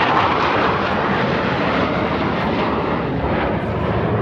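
Aircraft flying past: a loud, steady rush of engine noise.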